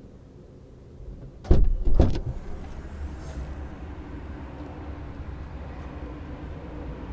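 Toyota C-HR Hybrid heard from inside the cabin: two heavy thumps about a second and a half in, half a second apart, then a steady low rumble.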